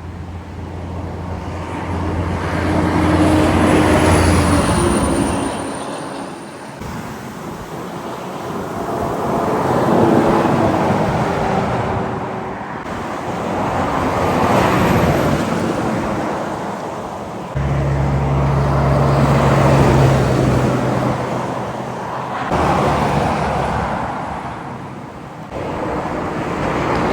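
Highway traffic passing one vehicle after another, trucks among them: about five pass-bys, each swelling up and fading away, with a low engine drone under some of them.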